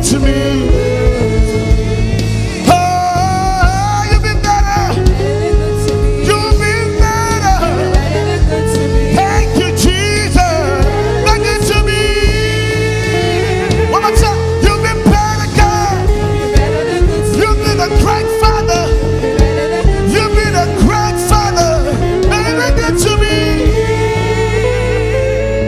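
Live gospel praise and worship music: a singer over a full band with bass, guitar and a steady beat.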